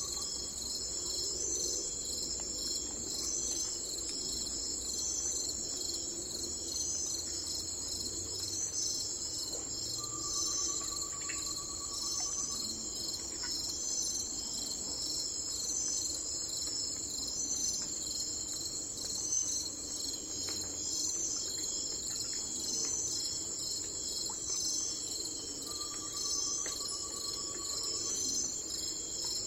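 A steady, high-pitched insect chorus with a fast, even pulsing. A faint, even-pitched call about two seconds long sounds twice, about ten seconds in and again near the end.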